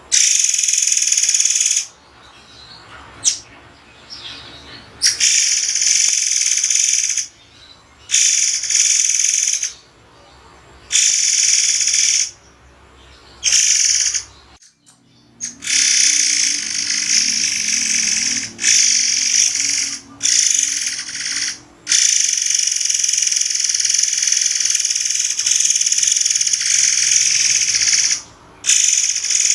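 Murai air songbird singing loud, high, sharp notes in runs of one to several seconds, broken by short pauses.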